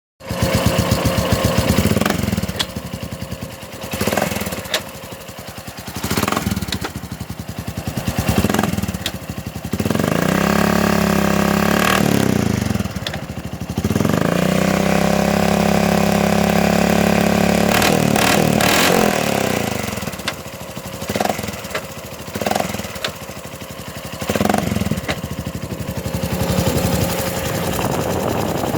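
2007 Honda Foreman 500 ATV engine running and revved several times, with one long rev in the middle, and a recurring clunk from under the front cover. The owner traces the clunk directly to the centrifugal clutch.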